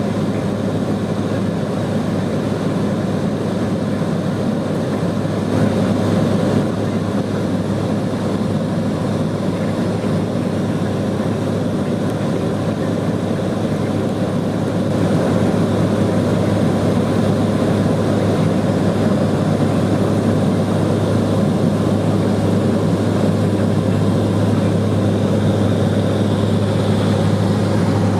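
Single-engine turboprop of a Cessna 210 Silver Eagle running steadily in flight: a constant low propeller drone under a steady rush of noise, a little louder from about halfway through.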